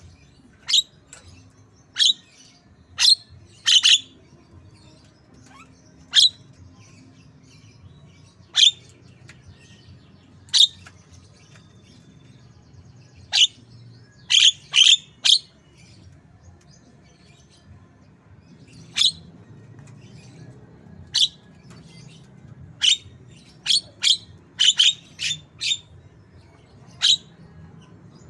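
Javan myna (jalak kebo) calling in imitation of a white-rumped shama: short, sharp chirps, mostly single and spaced a second or more apart, with quick runs of several notes in the middle and again near the end.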